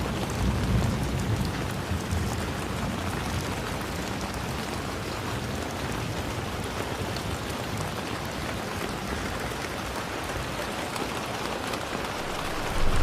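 Steady rain falling and pattering on surfaces. A low rumble swells about a second in and again near the end.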